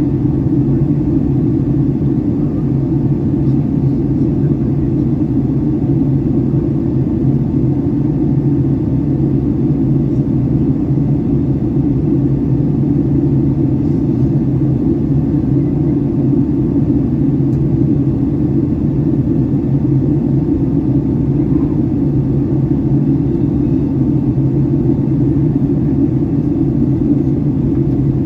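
Steady low drone inside the cabin of a Boeing 757-300 in flight: engine and airflow noise holding constant, with no changes.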